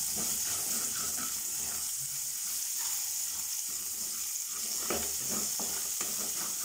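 Cumin seeds, crushed ginger-garlic and green chillies sizzling steadily in hot oil in a steel kadhai while a wooden spatula stirs them: the tempering being fried before the onion goes in.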